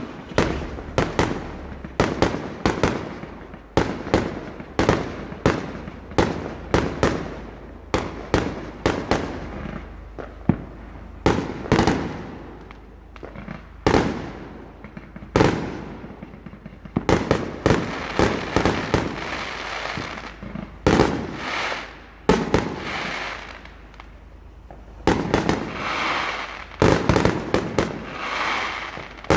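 Fireworks going off: a rapid series of sharp bangs, several a second at times, with crackling and hissing between them that grows denser in the second half.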